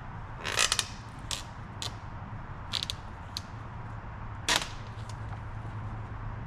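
Sharp snaps and cracks of woody branches being broken or cut, about six in four seconds, the loudest about half a second in and again near four and a half seconds.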